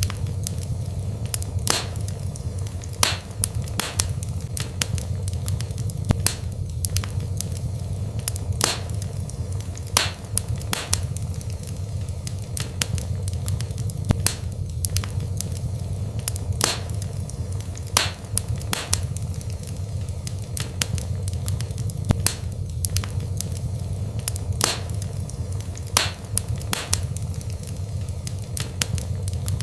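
Burning wood fire in a fireplace: irregular sharp crackles and pops, several a second, over a steady low rumble of the flames.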